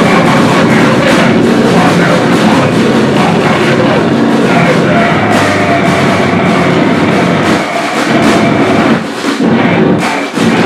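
Live noise-grind music: a very loud, dense wall of distorted noise with pounding drums, briefly dropping out about eight seconds in and again near the end.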